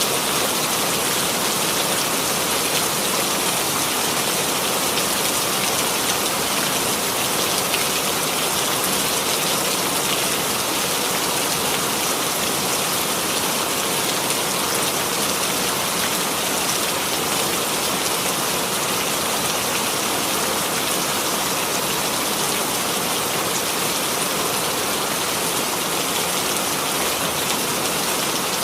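Steady rain falling on a surface, a dense even hiss of many drops with no change in intensity.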